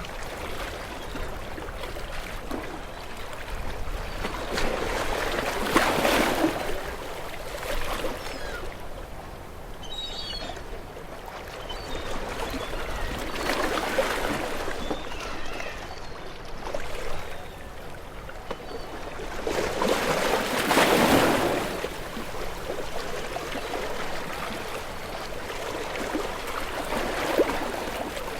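Small waves washing onto a shore: a surge rises and falls about every seven seconds, four times, over a steady wash of water.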